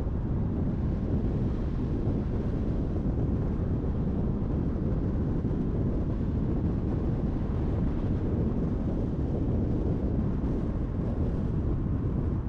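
Car driving at a steady speed: an even, low rumble of road and wind noise.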